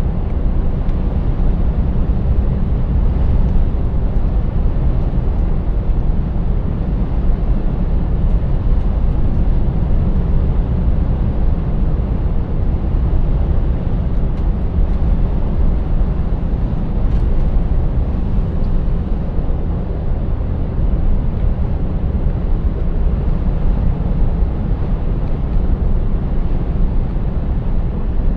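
Scania 590S truck's V8 engine running steadily under way, together with road and tyre noise, as a steady low rumble.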